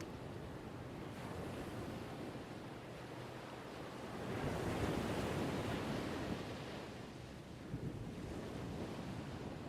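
Ocean waves washing on a shore: a steady rush of surf, with one wave swelling louder about four seconds in and easing off again a couple of seconds later.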